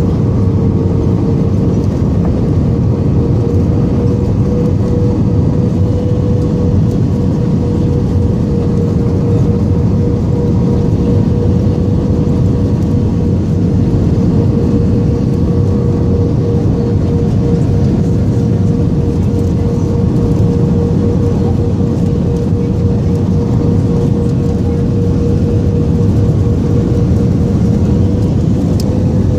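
Steady engine and airflow noise inside the cabin of an Airbus A320 during the landing, with a constant mid-pitched whine running through it.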